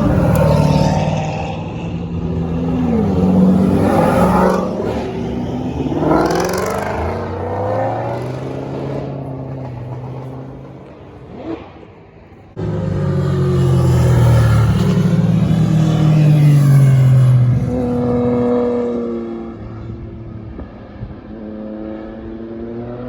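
Performance cars accelerating hard past one after another, engines revving, their pitch rising and falling as each goes by. The noise dies down, then cuts straight back to loud engines a little past halfway.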